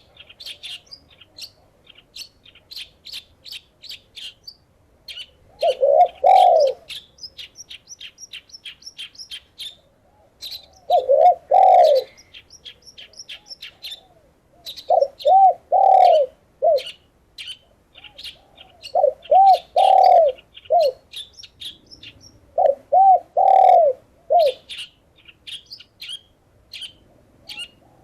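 Doves cooing, the derkuku and perkutut of a bird-therapy track, in phrases of three or four low, arched coos that come about every four seconds. Under them runs a constant rapid series of high chirps from small birds.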